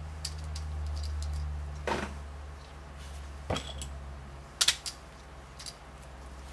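Plastic LEGO bricks and plates clicking as they are handled and pressed together: a handful of separate sharp clicks, over a low steady hum.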